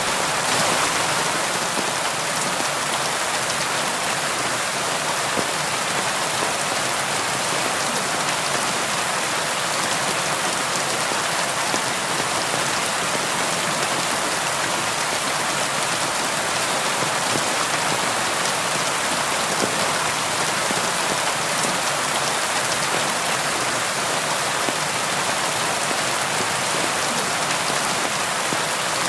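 Steady rain falling on a window, a dense even hiss with many small drop ticks.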